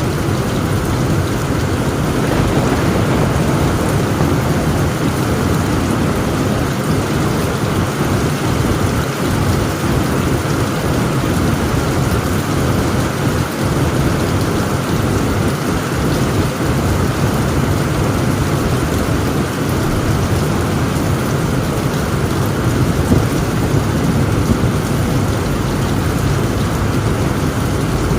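Heavy rain falling on a tent roof, with a low rumble of thunder under it. The sound stays steady, with no single sharp crack.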